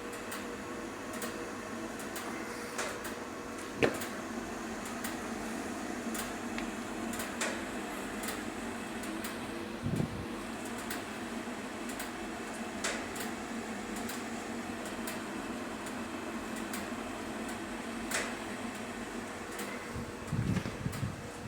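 10 kW pellet stove running: a steady fan hum with a faint constant tone, and scattered light ticks and clicks, with a few louder knocks.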